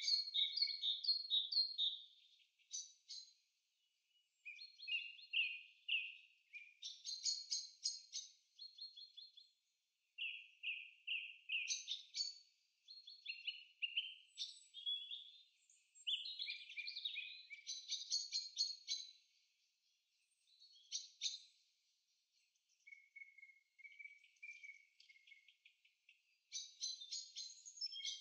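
Songbird singing a varied song: a string of short, high phrases of quickly repeated notes and trills, each a second or two long, separated by brief pauses.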